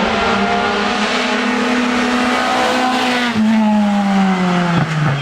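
Hill-climb race car engine running hard: a loud, high engine note that drops about three seconds in and then falls steadily, with a brief break near the end.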